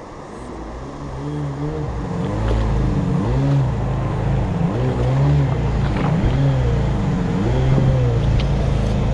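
Jet boat engine growing louder as the boat comes up the river, then running loud with its pitch swinging up and down as the revs change.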